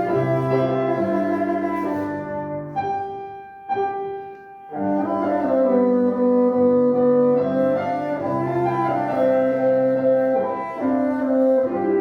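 Bassoon playing a slow classical melody with piano accompaniment. The music drops to a softer passage about three to five seconds in, then swells again.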